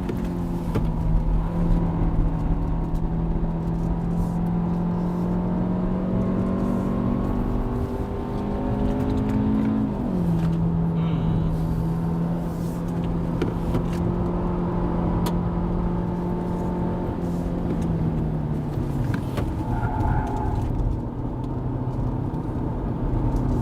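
Hyundai Avante (CN7) 1.6-litre four-cylinder engine droning under sustained heavy throttle through a CVT, heard from inside the cabin. Its pitch creeps slowly upward, steps down abruptly about ten seconds in, and sags again near the end. The car is labouring on an uphill climb, with speed barely building.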